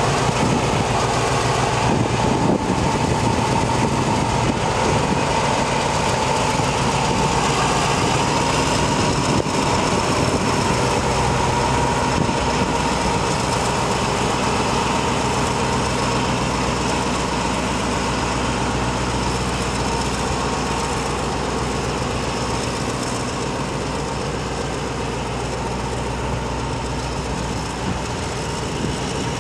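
Freight train hauled by a diesel-electric locomotive going past, pulling container wagons. The locomotive engine runs steadily with a steady whine, slowly fading as the train draws away.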